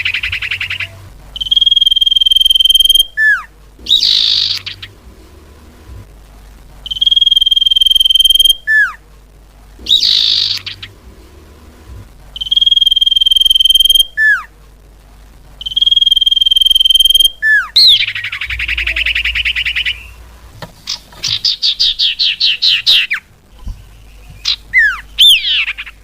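Common iora (cipoh/sirtu) song used as a lure call: four long, steady, high whistles, each about a second and a half, alternating with rapid chattering trills and short falling notes.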